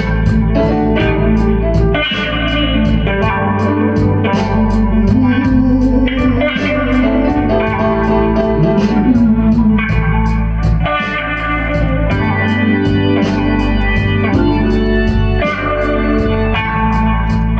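Blues-rock band playing live: electric guitar over an organ sound, bass and drums, with a steady cymbal beat.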